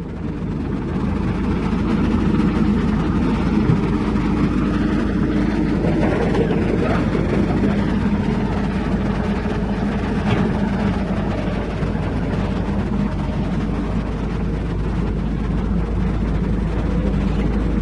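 Heavy diesel engine running steadily, building up over the first couple of seconds and then holding an even drone.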